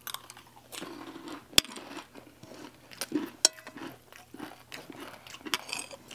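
People chewing crunchy chatpate, a spiced puffed-rice snack, with spoons clicking against plates. The sharpest clinks come about one and a half seconds in and again about three and a half seconds in.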